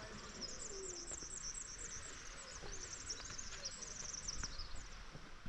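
Faint outdoor wildlife calls: runs of rapid, high-pitched chirps, with a few low hooting calls beneath them.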